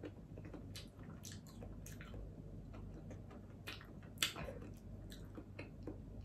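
A person chewing steamed okra with the mouth close to the microphone: soft, scattered wet clicks and crackles, with one sharper click about four seconds in.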